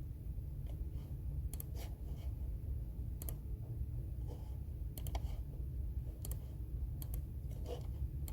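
Computer keyboard keys being pressed sparsely and irregularly, single clicks and quick pairs about every half second to a second, over a steady low hum.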